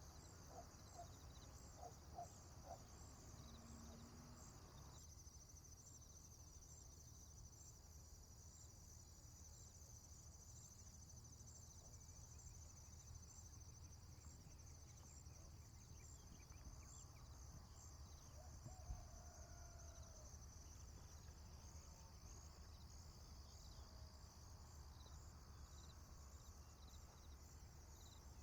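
Faint rural ambience led by a steady, high-pitched chorus of insects such as crickets, trilling without a break. A few short, faint animal calls come in the first few seconds, and another soft call rises and falls a little past the middle.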